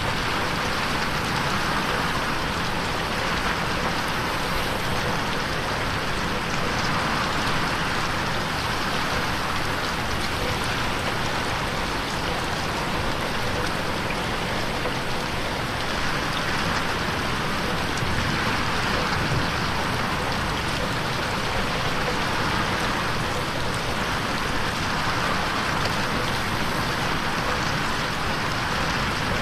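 Steady rain pattering on a window pane, a dense even hiss, with 8D panning that makes it swell and ease every few seconds.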